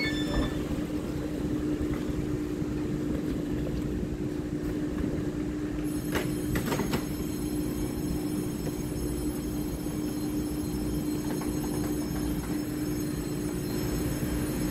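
An EMU3000 electric multiple unit standing at the platform with its doors open, its onboard equipment giving a steady hum with one low tone running through it. A couple of brief clicks come about six to seven seconds in.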